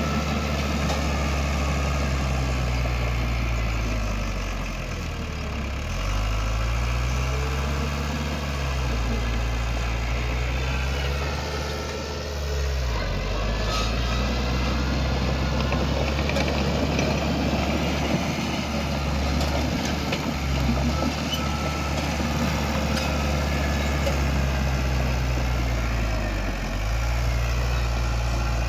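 Heavy diesel engine of earthmoving machinery running continuously under varying load, its pitch dipping briefly and recovering a few times.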